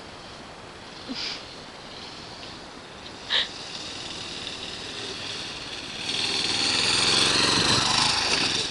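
Small dirt-bike engine coming closer, getting louder from about four seconds in and loudest near the end. Two brief sharp sounds come before it, about a second and three and a half seconds in.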